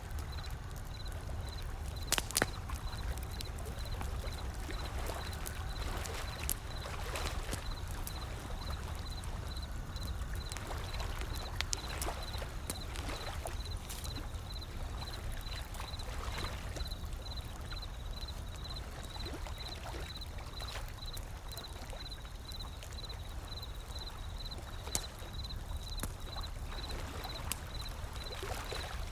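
Wood fire crackling with scattered snaps, one sharper pop about two seconds in, over a steady low rumble of ocean waves.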